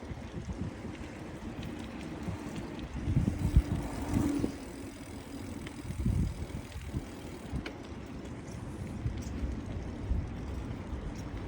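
Wind buffeting the microphone during a bicycle ride: a low, uneven rush with stronger gusts about three to four and a half seconds in and again around six seconds.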